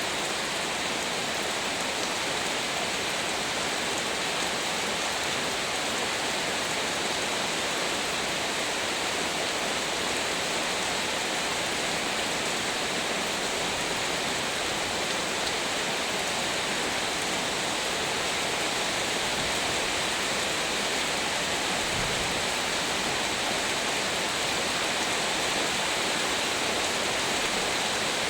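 Heavy rain falling steadily, a dense even wash of sound with no let-up.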